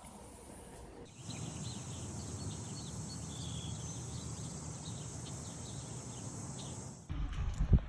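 Outdoor ambience: a steady high-pitched insect chirring with short bird chirps scattered through it. About a second before the end it cuts to a low rumble with one loud thump.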